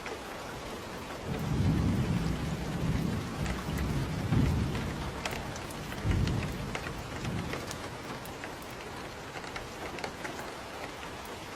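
Steady rain with scattered drips, and a rolling rumble of thunder that starts about a second in, swells three times, and fades out after about six seconds.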